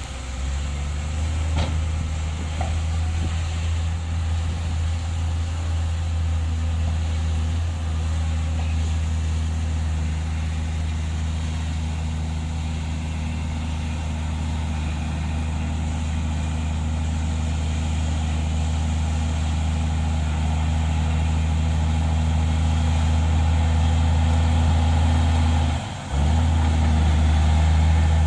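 Heavy diesel earthmoving machinery running steadily with a deep engine drone that grows slightly louder toward the end. The sound drops out briefly near the end.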